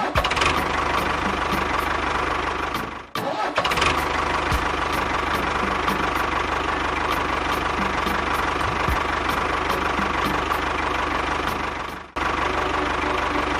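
Small motor of a DIY mini tractor running steadily, dipping briefly twice, about three seconds in and near the end.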